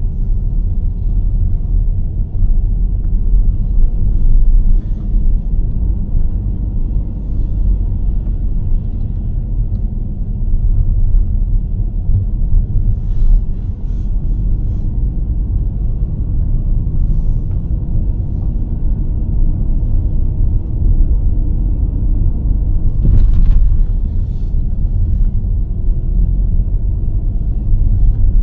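A car being driven: a steady low rumble of tyres and engine, with a few short sharp knocks from bumps along the way.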